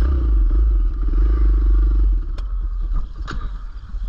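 Kawasaki KLX110L pit bike's small single-cylinder four-stroke engine running while being ridden, with heavy low rumble. The engine note drops away about two seconds in, and a few sharp clattering knocks follow near the end.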